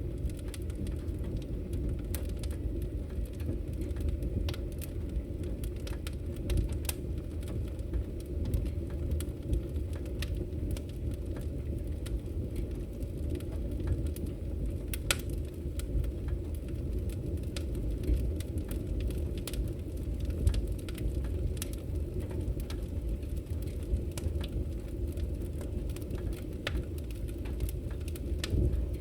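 Wood fire crackling in a fireplace: a steady low rumble of flames with irregular sharp pops and crackles throughout, one louder pop about halfway through.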